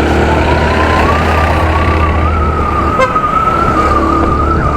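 Hero Maestro Edge scooter being ridden: its 110.9cc single-cylinder engine and automatic drive give a steady whine that slowly rises in pitch as it gathers speed, over a low wind rumble on the microphone.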